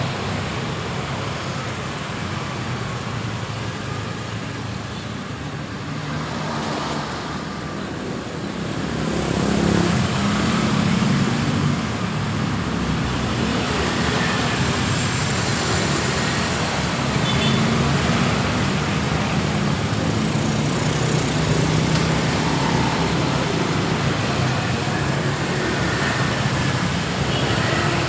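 Road traffic passing steadily, with engine hum and tyre noise that grows louder about ten seconds in.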